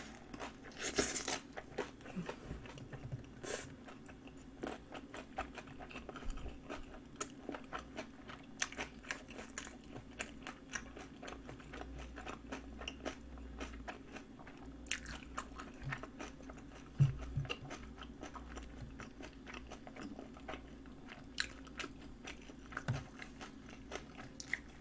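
A person chewing napa cabbage kimchi, with scattered crunches and mouth clicks. A faint steady hum runs underneath.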